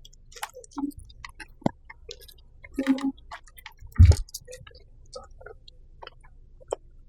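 Close-miked eating: chewing with scattered small wet mouth clicks and smacks, and one louder low thump about four seconds in.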